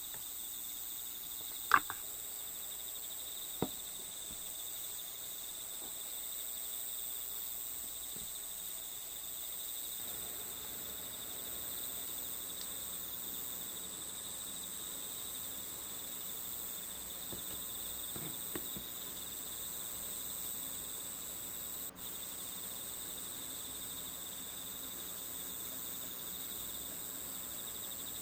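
Crickets chirping in a steady, high, continuous trill. Two sharp clicks stand out about two seconds apart near the start, and a fainter one comes later.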